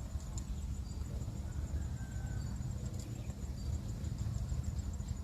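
Insects trilling in a steady high, fast-pulsing buzz, with a few faint short chirps, over a constant low rumble.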